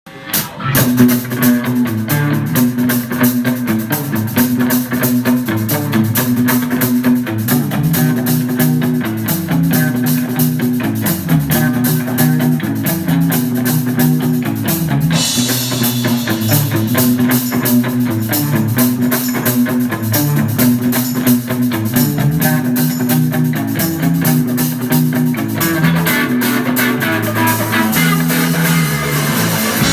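Rock band playing an instrumental intro: a repeating guitar and bass figure over a steady drum-kit beat. The cymbals thicken from about halfway through.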